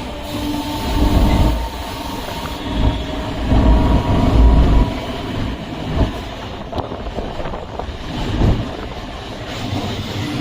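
Suburban electric train running on the line between Chennai Beach and St Thomas Mount: a steady rumble of wheels on rail with a faint steady hum, swelling louder several times.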